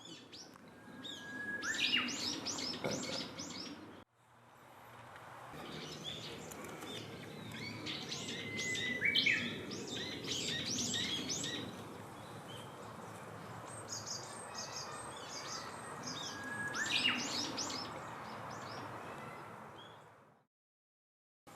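Wild songbird singing: a short, flat whistle leading into a quick run of high notes, repeated several times over steady outdoor background noise. The sound breaks off briefly about four seconds in and cuts out near the end.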